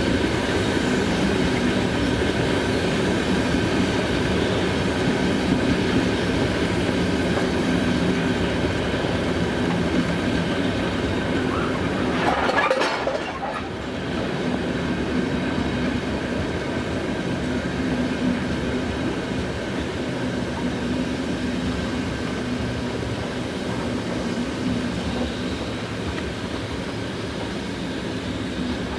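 Freight train of hopper wagons rolling steadily past on the rails. About twelve seconds in there is a brief louder burst of noise, after which the sound drops slightly.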